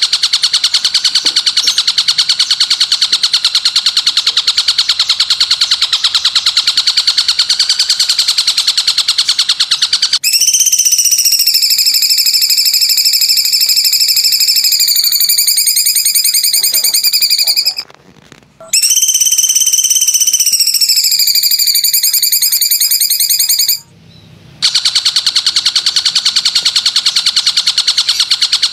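A songbird-training (masteran) recording of high calls. A fast, even, buzzing trill about ten seconds long gives way to two long held whistle-like notes, each about five seconds, rising at the start and easing down, with brief silences between. The buzzing trill returns near the end.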